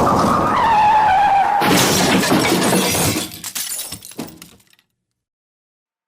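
A loud rushing noise with a falling tone, then a sudden crash about a second and a half in, with scattered clicks that die away. Silence for the last second and a half.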